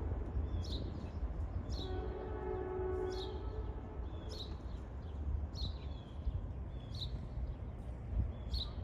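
Low, steady rumble of a train at a railway station. Short high chirps repeat about once a second over it, and a faint held tone sounds briefly about two seconds in.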